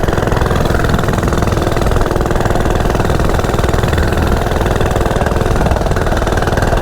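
Coleman CT100U minibike's single-cylinder four-stroke engine, with its governor removed and a mini muffler fitted, running steadily under way.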